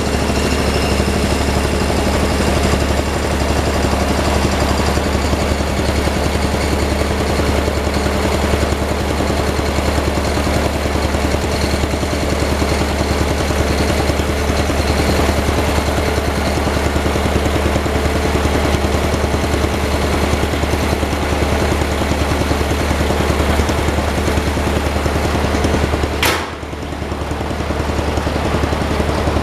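Engine of a snow-plowing machine running steadily, with a single sharp click and a brief dip in level about 26 seconds in.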